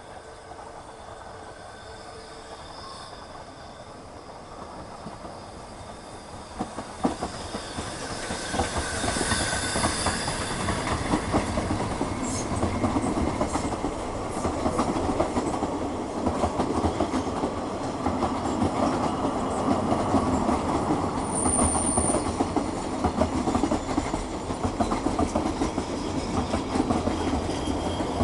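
Ffestiniog Railway narrow-gauge steam train approaching and then passing close by: faint at first, it grows louder about seven seconds in, into a steady clatter of carriage wheels over the rails. A brief high squeal comes about two-thirds of the way through.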